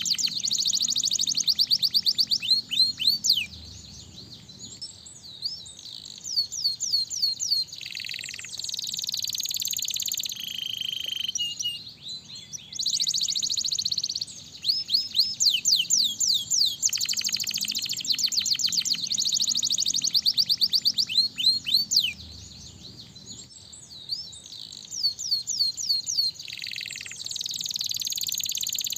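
Domestic canary singing: long runs of fast trills and rapid rising and falling whistled notes, in loud phrases a few seconds long broken by quieter passages.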